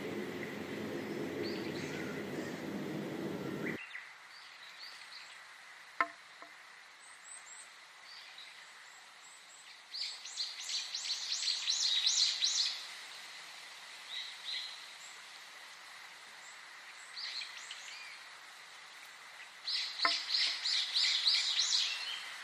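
A songbird singing two bursts of rapid, high chirping phrases, one about ten seconds in and one near the end, with softer single chirps between them, over a faint steady high tone. The first four seconds hold a different, lower steady background that cuts off abruptly.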